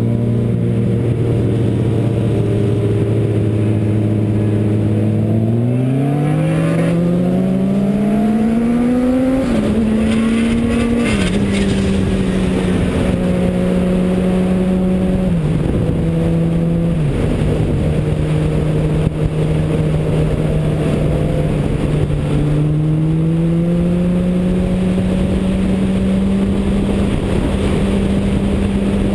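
Car engine running under way over steady road noise: a steady note, then revs rising for about four seconds from about six seconds in, then held, dropping in two steps, and climbing again in the last few seconds.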